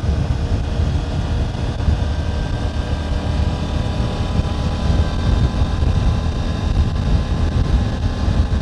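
2024 Triumph Tiger 900 GT Pro's three-cylinder engine running steadily under way, with wind rush over the helmet microphone.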